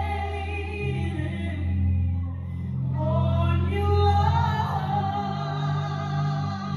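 Music: a woman sings long, wavering notes over steady low accompaniment.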